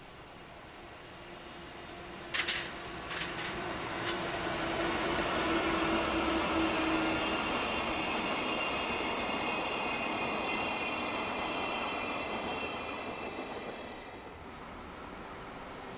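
A freight train of empty container flatcars rolling past, the wheels running on the rails with a faint high squeal. A few sharp clicks sound about two and a half seconds in; the noise swells as the wagons pass, then fades near the end.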